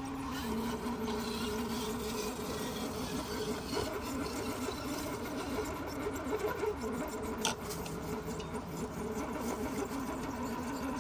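Electric motor and geared drivetrain of an RC crawler truck whining steadily at low speed as it crawls, with one sharp click about seven and a half seconds in.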